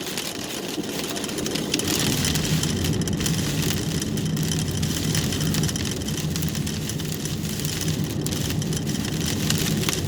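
Car engine running and road noise from inside the cabin, the engine picking up about two seconds in, with rain and pea-size hail striking the car.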